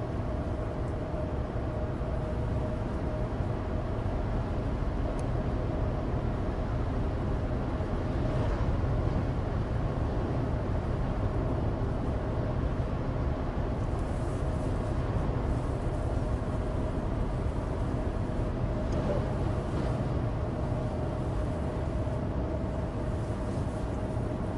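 Steady in-cabin drone of a Suzuki Alto Turbo RS's 660 cc turbocharged three-cylinder engine and road noise from studless winter tyres on a dry road while cruising, with a faint steady hum.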